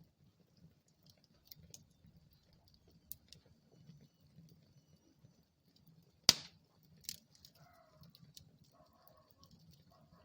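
Wood fire burning in a fireplace, crackling with scattered small ticks over a low rumble, and one loud sharp pop a little past the middle, followed by a smaller one.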